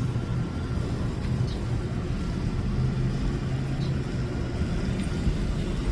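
Car engine idling: a steady low rumble and hum.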